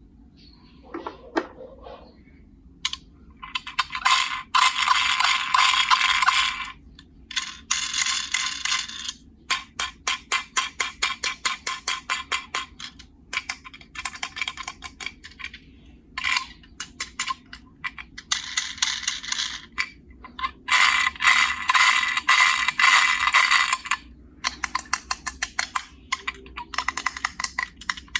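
Runs of rapid mechanical clicking and clattering, like a small ratchet or gear mechanism. Dense bursts lasting one to three seconds alternate with stretches of separate clicks at about eight a second, broken by short pauses.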